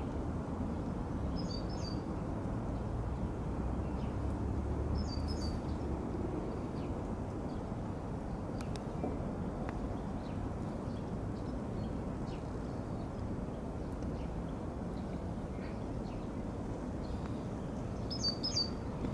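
Steady low outdoor rumble with a small bird chirping briefly three times: near the start, about five seconds in, and near the end.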